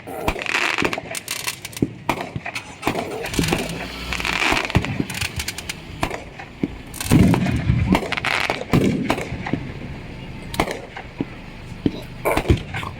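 Fireworks going off: many sharp, irregular cracks and pops, heavier for a moment about seven to eight seconds in.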